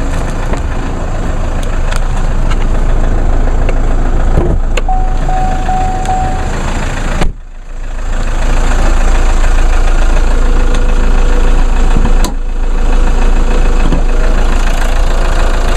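Four-cylinder twin-turbo diesel engine of a Mercedes-Benz GLK 250 idling with the hood open. The sound cuts out sharply for a moment about seven seconds in, then a diesel idle picks up again.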